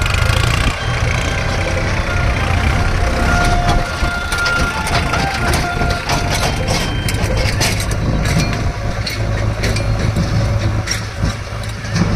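Heavy diesel engine running steadily, with repeated knocks and clatter over it.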